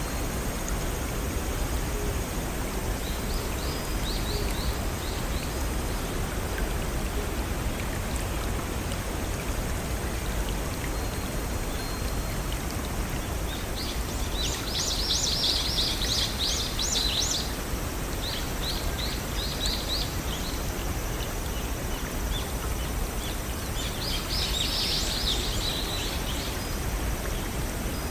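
Steady rush of running water from a small stream and waterfall. A songbird cuts in a few times with quick bursts of high, rapid notes: about three seconds in, twice around the middle, and near the end.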